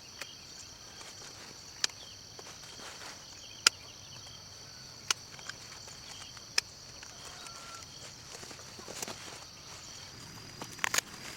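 Outdoor ambience with a steady, high-pitched drone of insects, broken by sharp clicks: four single ones about a second and a half apart, and a quick cluster near the end.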